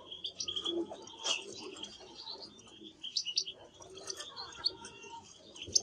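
Canary singing in short chirps and brief trilled phrases with gaps between them, with one sharp click near the end.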